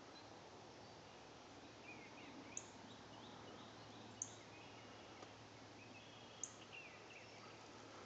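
Quiet woodland with faint distant birds calling: three short, sharp, high chirps spread a couple of seconds apart, with softer twittering between them.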